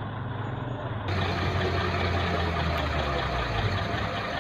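Engine of a heavy vehicle running with a steady low rumble. About a second in, the sound cuts abruptly to a different, fuller-sounding recording of an engine.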